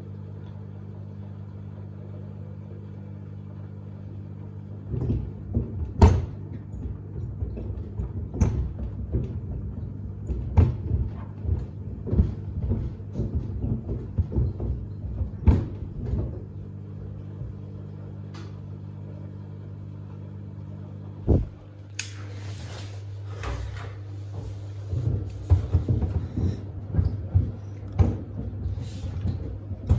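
Samsung WD70T4047CE washer-dryer drum turning with a steady motor hum while sneakers tumble inside and thud irregularly against the drum. The knocking stops briefly about two-thirds of the way through, a short hiss follows, and then the thuds start again.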